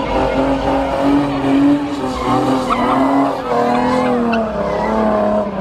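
An Infiniti car doing donuts, its engine held at high revs that waver up and down while the tires squeal and skid.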